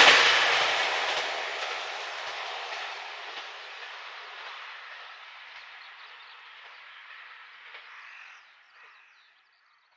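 JR Hokkaido H100 'DECMO' diesel-electric railcar running away along the track, its wheels-on-rail noise fading steadily and dying out about nine seconds in.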